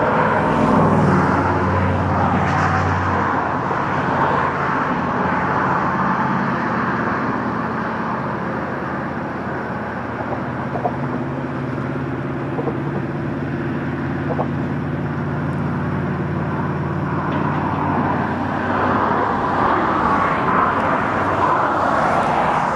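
Steady highway traffic passing on a bridge, with the low engine hum of a heavy vehicle through much of it.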